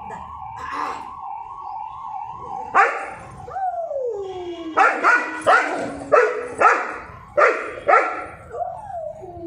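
Labrador retriever barking: one bark about three seconds in, a long falling whine-howl after it, then a quick run of about seven loud barks and another whining glide near the end. Before the barking, a steady wavering high tone like a distant siren.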